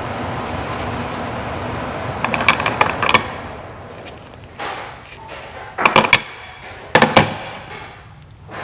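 Metal tools and engine parts clinking and knocking in three short clusters, about two, six and seven seconds in, over a steady rushing noise that fades after the first few seconds.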